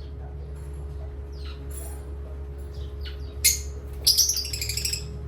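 Parrots chirping: a few short, high, falling chirps, then a loud harsh call about three and a half seconds in, followed by a quick run of calls near the end. A steady low hum lies underneath.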